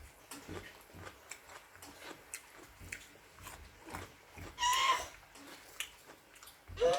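A person chewing and biting food close to the microphone: small irregular wet clicks and crunches. Around four and a half seconds in, a brief high-pitched call, louder than the chewing, cuts in.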